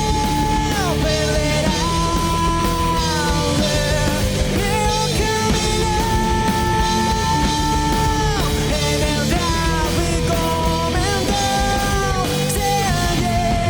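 Rock band playing with distorted guitars, bass and drums. Long held lead notes slide down in pitch at their ends.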